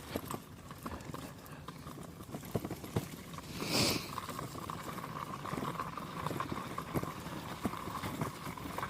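Footsteps walking along a dirt forest trail, an uneven run of short steps, over a steady faint tone in the background. One brief louder sound stands out about four seconds in.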